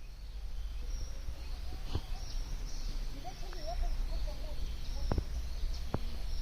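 Outdoor ambience of several birds chirping and calling in short curving notes over a steady low rumble, with a few sharp clicks about two, five and six seconds in.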